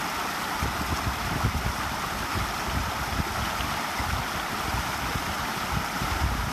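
A small stream flowing with a steady rushing hiss, with wind buffeting the microphone in uneven low rumbles.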